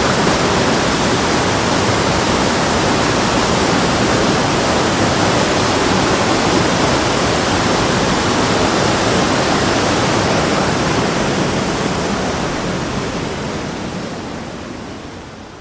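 Rushing water, a steady loud roar with no distinct events, fading out over the last few seconds.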